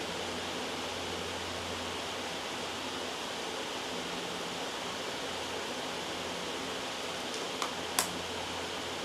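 Steady loud white noise, with two short sharp clicks about half a second apart near the end.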